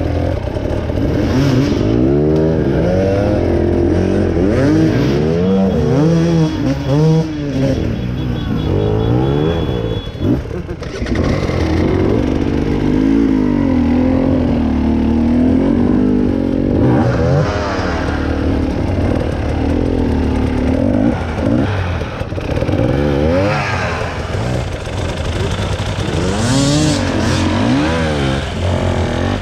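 Motorcycle engine being ridden with the throttle worked on and off, its pitch rising and falling every second or so.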